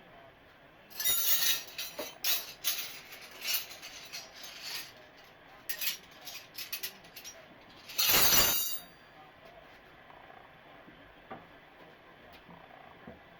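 Hard objects clinking and scraping against each other: a run of short clatters, then one louder, longer scrape about eight seconds in, as tools and fixture parts are handled during plumbing work.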